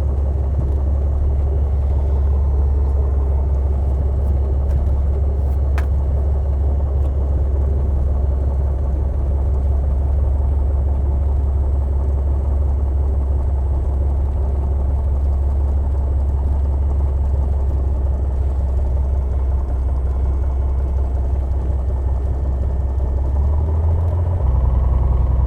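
Piper Dakota's six-cylinder Lycoming engine running steadily at low taxi power, heard from inside the cabin. Near the end the engine note rises a little and gets louder as power is added.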